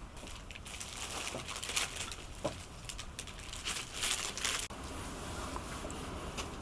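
Irregular crinkling and rustling, like something being handled, that stops abruptly about two-thirds of the way through and gives way to a steady low background hiss.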